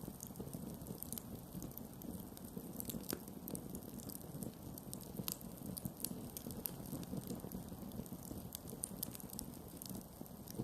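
Campfire burning with a steady low rustle and frequent sharp crackles and pops, scattered irregularly.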